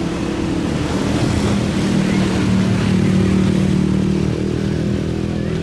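An engine running steadily, its hum rising slightly in pitch near the middle, over a steady rush of wind noise.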